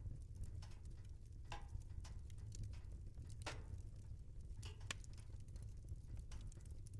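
Wood fire in a fireplace crackling, with irregular snaps and pops over a low steady rumble; a few louder pops stand out, the strongest about three and a half seconds in.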